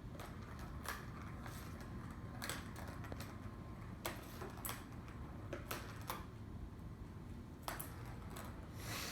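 Plastic tower-of-balls cat toy rattling and clicking as a kitten bats the balls around their tracks: irregular light clicks and short rattles, a few seconds apart, over a low steady room hum.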